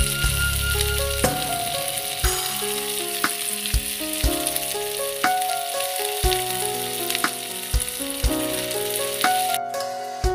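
Beef hamburger patties sizzling in oil in a grill pan, a steady hiss that cuts off abruptly near the end. Background music with a steady beat plays throughout.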